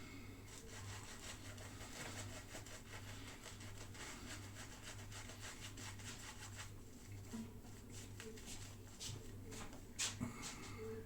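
Quick, light rubbing and scraping strokes, several a second, thinning out after about six seconds, with a sharper click about ten seconds in.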